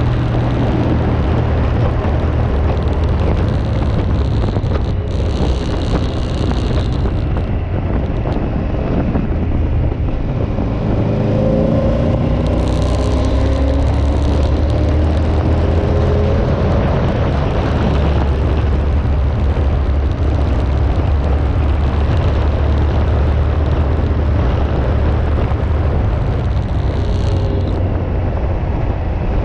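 Motorcycle engine running on the move under steady wind rush on the microphone. The engine note rises for a few seconds about a third of the way in as the bike accelerates.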